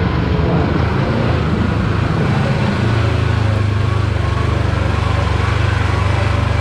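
Kawasaki Teryx KRX4 1000 side-by-side's parallel-twin engine running steadily under way, a low drone that grows stronger about three seconds in.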